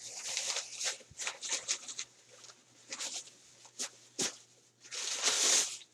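Paper fast-food takeout bag being untied and opened by hand: irregular rustling and crinkling with a few sharp crackles, and a longer, louder rustle near the end.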